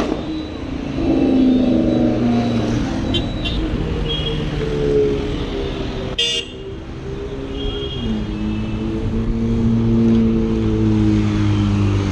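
Car engine running in street traffic, its pitch slowly rising and falling, with short car-horn toots several times and one sharp click about six seconds in.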